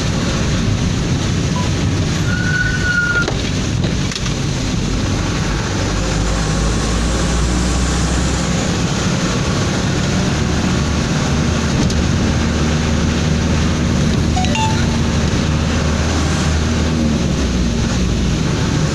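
Steady cab noise of a truck driving on a highway in heavy rain: a constant engine drone under tyre and rain hiss.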